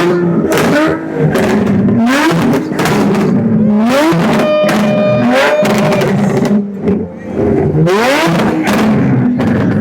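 Car engines revving, their pitch rising and falling again and again, mixed with loud music.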